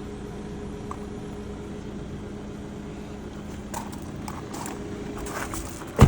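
A steady low hum inside the car, with light clicks and taps of parts being handled starting about two-thirds in, and a loud knock right at the end.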